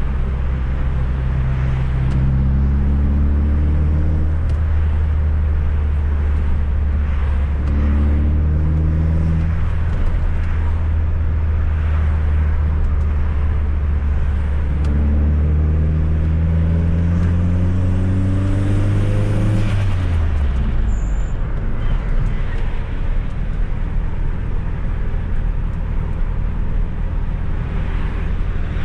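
Fiat Coupe 16V Turbo's turbocharged engine heard on the move, its note rising in three pulls, the last and longest one dropping away about twenty seconds in as the revs fall, over steady road and tyre noise.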